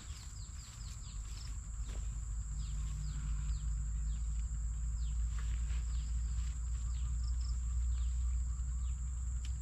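Outdoor ambience: insects holding a steady high-pitched drone, with many short falling chirps, over a low rumble.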